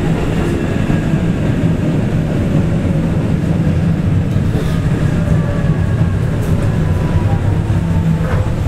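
Keikyu 800 series electric train car running, heard from inside the car: a steady low rumble with a faint whine that falls slowly in pitch.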